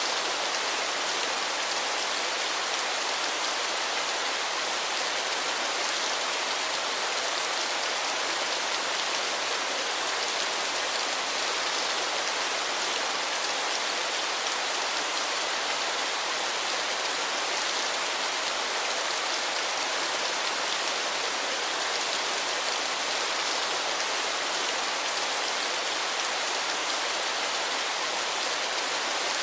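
Waterfall: falling water hissing steadily and evenly, strongest in the higher register with little deep rumble.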